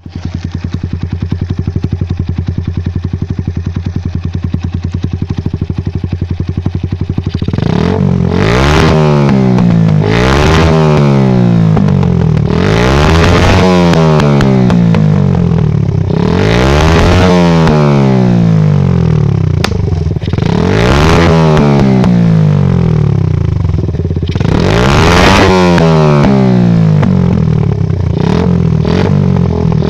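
Lexmoto Adrenaline motorcycle engine through a Toro exhaust, idling steadily, then revved up hard about six times, each time dropping back towards idle, with quicker blips near the end. There is a single sharp crack about twenty seconds in.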